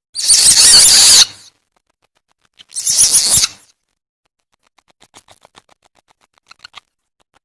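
Civet lure call: two harsh, hissing screeches of about a second each, then a run of faint, quick clicking chatters near the end.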